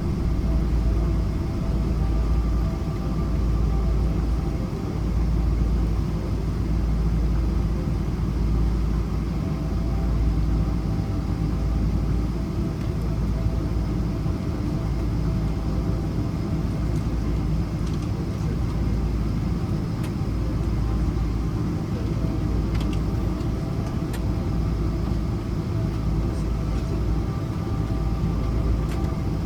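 Cabin noise inside a Boeing 777-200ER rolling on the ground after landing: a steady low rumble from the tyres and the idling Rolls-Royce Trent engines, with a faint steady hum above it.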